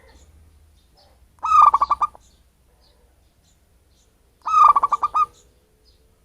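Wild local zebra dove (perkutut) calling twice, about three seconds apart. Each call is a short, rapid string of pitched cooing notes. Faint chirps from other small birds can be heard between the calls.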